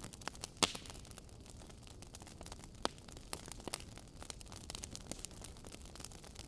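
Logs burning in a fireplace, crackling: a steady scatter of small snaps and pops over the low rush of the flames. The loudest pop comes about half a second in, and another sharp one near three seconds.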